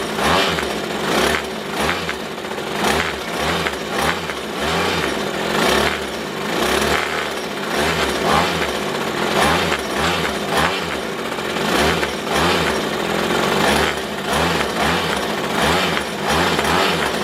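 Kawasaki hedge trimmer's small two-stroke engine running on freshly fitted piston rings, its note rising and falling unevenly about once a second.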